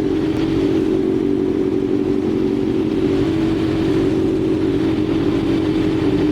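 Kawasaki ZX-6R sport bike's inline-four engine running at a steady speed while riding, its note holding an even pitch with no revving.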